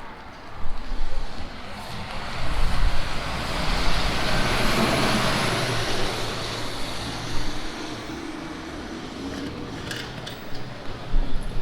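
A motor vehicle passing on a wet street: its tyre hiss and engine hum swell to a peak about five seconds in, then fade away.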